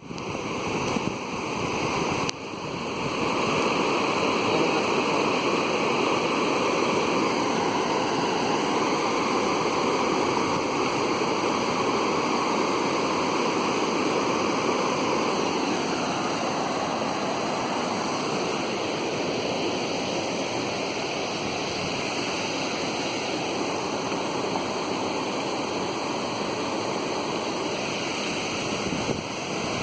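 Waterfall: a steady rush of falling water, stepping up in level about two seconds in.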